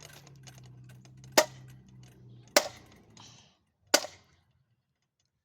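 Four sharp cracks like small-gun shots, about one every second and a quarter, aimed at a ceiling fan. Under the first ones the fan's motor hums, fading out about three and a half seconds in.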